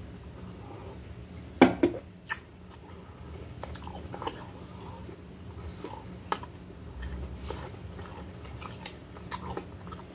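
Close-up chewing of a toasted salami sandwich: irregular small wet mouth clicks, with a pair of sharp knocks about a second and a half in.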